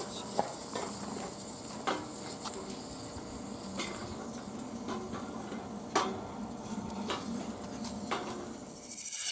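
Scattered light clicks and taps at irregular intervals over a steady faint hiss, with a rising swell near the end.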